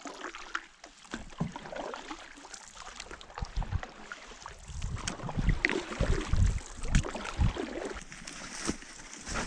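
Canoe being paddled on a lake: paddle strokes splashing and gurgling in the water, with irregular low thumps and knocks, loudest a little past halfway.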